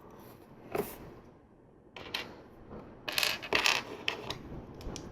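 Plastic LEGO pieces clicking and rattling as they are handled and pressed together: a single click just under a second in, then a quick run of clicks about three seconds in.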